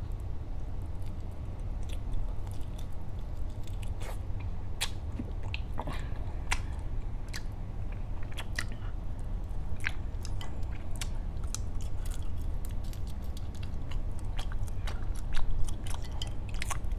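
Close-miked chewing of jumbo shrimp: irregular wet mouth clicks and smacks as the food is bitten and chewed, over a steady low hum.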